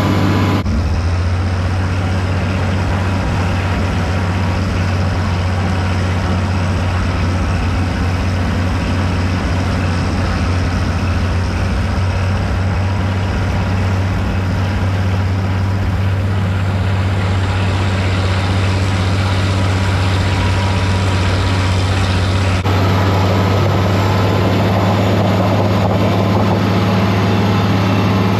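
Tractor engine running steadily at a constant speed, a deep unchanging drone. The sound changes abruptly about half a second in and again about 22 seconds in, as if the recording cuts.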